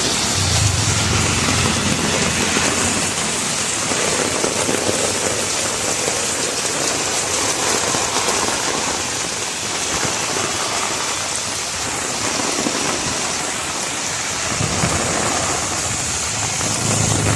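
Heavy rain falling steadily, a dense even hiss. There is a low rumble about a second in and again near the end.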